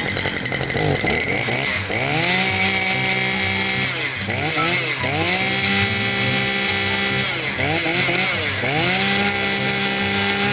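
Stihl FS 460 brush cutter's 46 cc two-stroke engine revved three times, each time climbing from idle to full speed, holding for a second or two, then dropping back.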